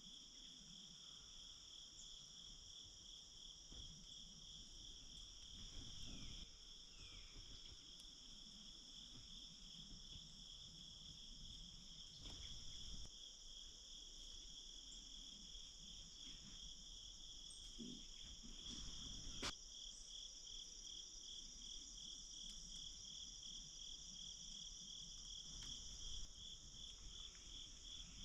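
Faint chorus of crickets and other night insects: a fast, even pulsing trill with higher steady buzzing tones above it. A single faint click about two-thirds of the way through.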